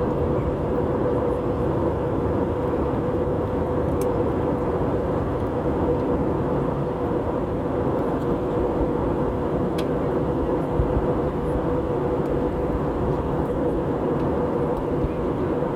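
Steady airliner cabin noise in flight: the jet engines and rushing air make an even rumble with a steady hum, and there are two faint ticks.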